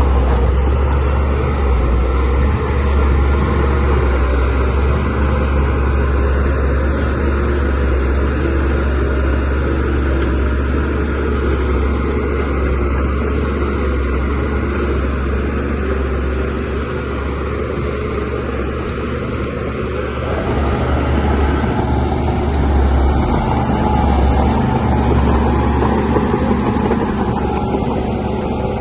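Shantui DH17C3Pro bulldozer's diesel engine running steadily with a deep low rumble, growing a little louder about two-thirds of the way through.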